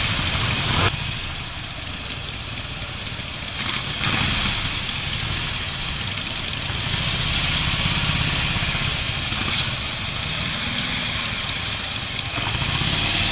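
Harley-Davidson Street Bob's V-twin engine running at low speed, with other Harleys rumbling close by and a steady rush of air noise over it. A short sharp knock about a second in.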